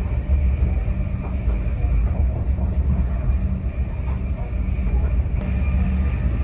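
Greater Anglia Class 745 FLIRT electric train running at speed: a loud, steady low rumble with a faint steady whine above it, and a single sharp click about five seconds in.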